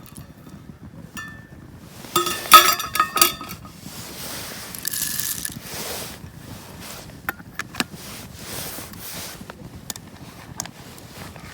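Cookware handled at a camp meal: a cluster of ringing clinks about two to three and a half seconds in, then softer rustling and a few scattered sharp clicks.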